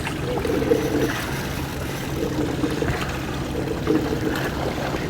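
Water trickling and splashing around a small fishing boat, over a low steady hum.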